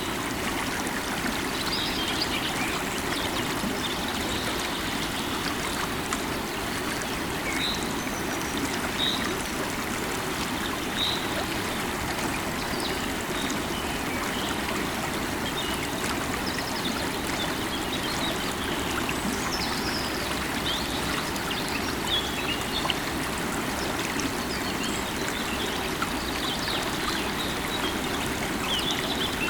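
River water flowing steadily, a continuous rushing, with short bird chirps sounding now and then above it.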